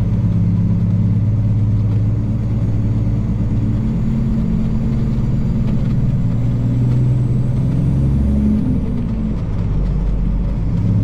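Diesel engine of a Peterbilt semi truck running steadily at low speed, with its pitch shifting briefly about eight seconds in.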